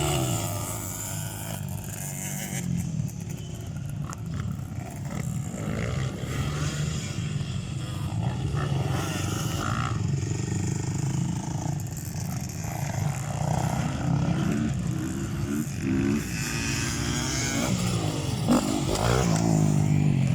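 Motocross dirt bikes racing, their engines revving up and down as they accelerate and back off, with several bikes running at once. The revving climbs several times near the end.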